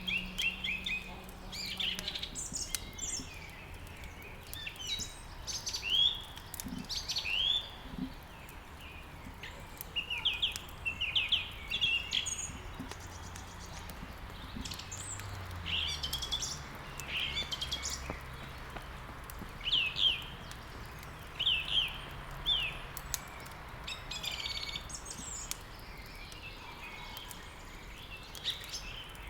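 Songbirds chirping and twittering in many short, quick, sweeping notes, one after another throughout, over a steady soft hiss.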